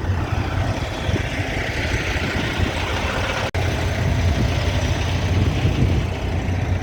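Semi truck's diesel engine running steadily, heard from inside the cab as a constant low hum with a rushing hiss over it. The sound cuts out for an instant about three and a half seconds in, then carries on slightly louder.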